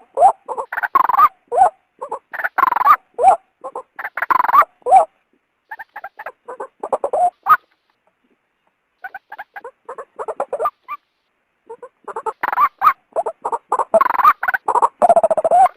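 Female white-breasted waterhen calling: bursts of rapid, harsh repeated notes, with two brief dead-silent breaks midway. This is the female's call used as a lure to draw males out of cover.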